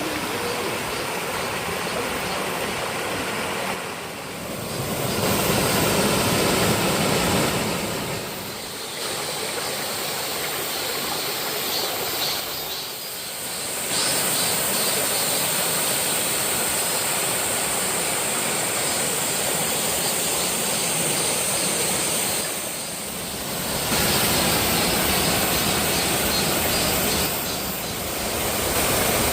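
Rushing water of a mountain waterfall and stream, a loud steady hiss that changes in level and tone several times.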